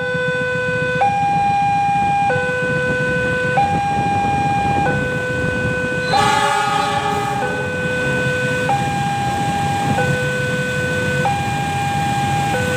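Railway level-crossing warning alarm sounding a two-tone signal, a lower and a higher tone alternating about every 1.3 seconds, over a steady low rumble. About six seconds in a train horn sounds once for just over a second.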